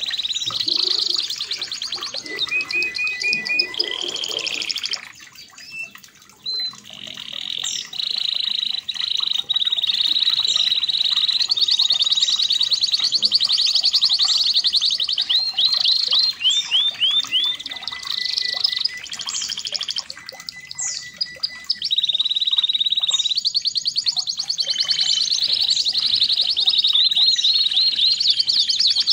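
Red canary (kenari merlok) singing a long, loud song of rapid trills and quick sweeping notes, almost without a break apart from a short pause about five seconds in.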